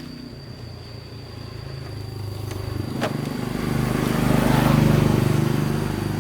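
Motorcycle engine running as it approaches and passes, getting louder to a peak about five seconds in, then fading.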